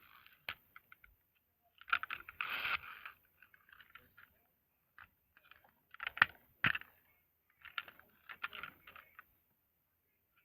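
Irregular clicks and short rattles of a plastic toy truck being handled and its parts worked, with louder clusters about two seconds in and again about six seconds in.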